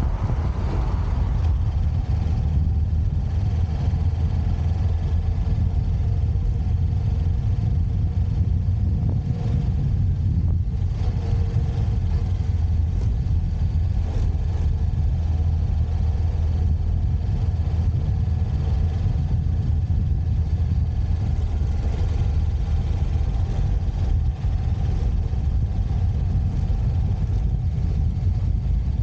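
Motorcycle engine running steadily with a constant deep rumble.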